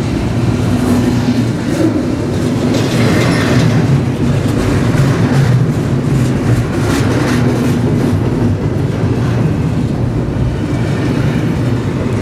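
Long double-stack container freight train passing close by: a steady, loud rolling rumble of the cars on the rails, with occasional faint clacks from the wheels.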